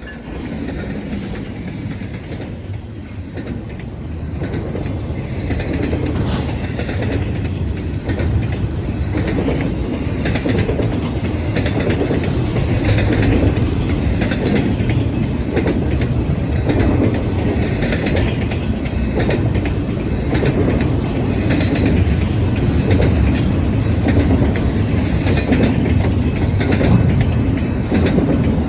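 BNSF intermodal freight train rolling past, its wheels clicking over the rail joints under a steady rumble that grows louder over the first several seconds and then holds.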